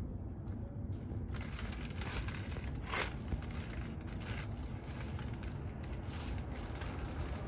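Distant Airbus A350-1000 jet airliner climbing out on takeoff: a steady low rumble from its Rolls-Royce Trent XWB-97 engines, with a ragged crackle over it that thickens about a second and a half in.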